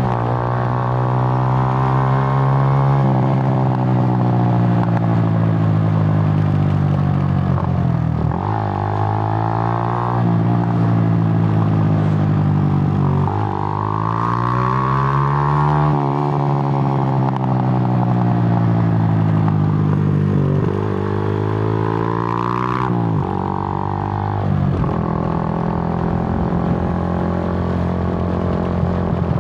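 Suzuki GN125's single-cylinder four-stroke engine pulling under way. Its pitch climbs several times as it accelerates and drops sharply at each gear change or roll-off.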